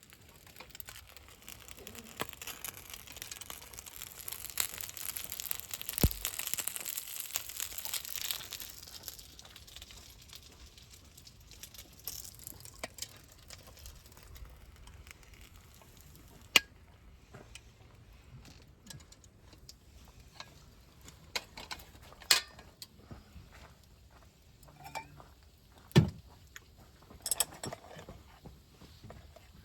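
A hiss swells and fades over the first nine seconds or so, followed by scattered sharp clicks, knocks and clinks of camp gear being handled, a few of them louder thumps.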